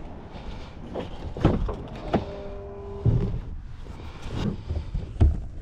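Hands unplugging a wiring connector from a truck's RF hub module: a string of plastic clicks and knocks, about six over a few seconds, with a short squeak a little past two seconds in.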